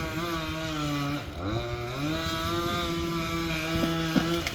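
Chainsaw engine running at part throttle. Its pitch drops about a second in, then rises back and holds steady, as when felling trees.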